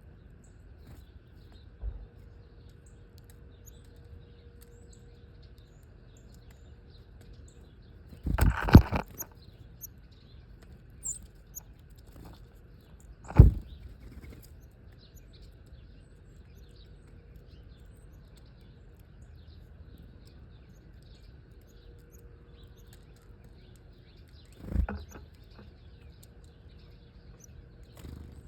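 Small birds chirping faintly and often, with several loud, sudden thumps: a double one about a third of the way in, a sharp one near the middle and another near the end.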